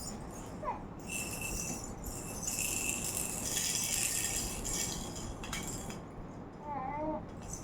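A baby's toy rattle being shaken, rattling and jingling in irregular bursts, loudest in the middle stretch.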